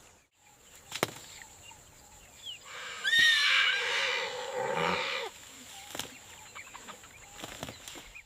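An elephant calling: one loud call of about two seconds starting about three seconds in, with high sliding pitches over a lower tone. A couple of short clicks come before and after it.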